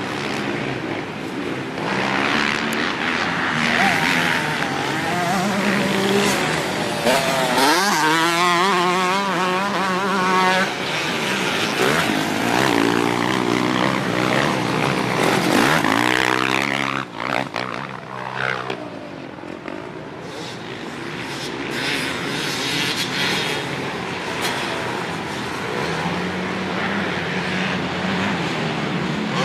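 Dirt bike engine running as the bike is ridden around, its note rising and falling repeatedly with the throttle, dipping briefly a little past halfway.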